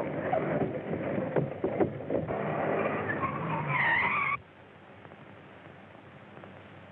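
Vehicle running with a few sharp clicks, then a high wavering squeal about three seconds in. It all cuts off abruptly, leaving a steady low hiss, heard through a narrow, old film soundtrack.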